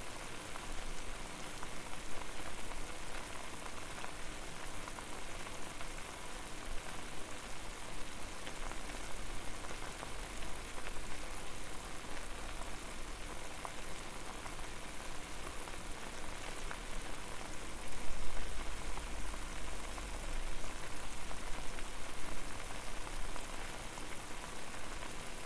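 Water boiling in a pot over a fire: a steady, dense crackle of popping bubbles, with a brief low rumble swelling about eighteen seconds in.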